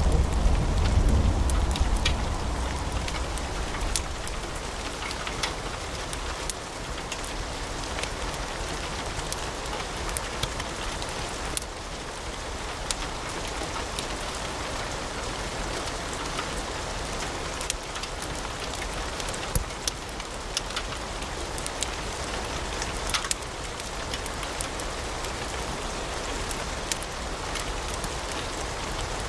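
Wood fire in a fireplace crackling: a steady hiss with frequent sharp pops and snaps scattered throughout. A low rumble at the start fades away over the first few seconds.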